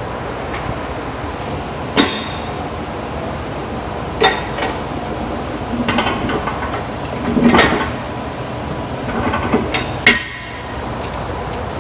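Metal clanks and clinks of tools and parts being handled on an engine, three sharp ones standing out, with some shorter scraping rustles between them, over a steady shop hum.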